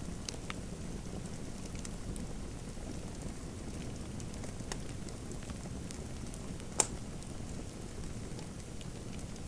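Fireplace fire crackling: a steady low rumble of burning with scattered sharp pops, one much louder pop about seven seconds in.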